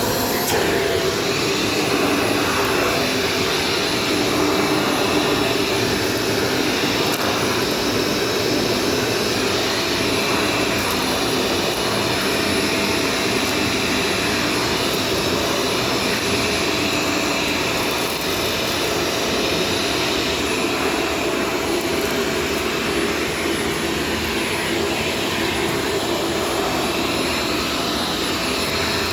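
Shark Stratos vacuum cleaner running steadily: a constant motor whine over the rush of air.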